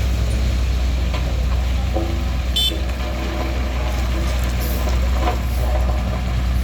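Heavy vehicle's diesel engine running steadily at low revs close by, with a short high-pitched beep about two and a half seconds in.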